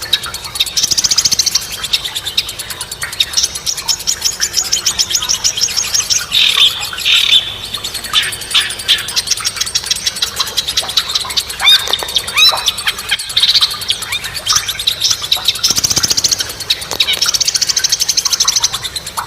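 Songbird song: fast, high buzzy trills about a second long, repeated every few seconds, mixed with sharp chirps and short downward-sweeping notes.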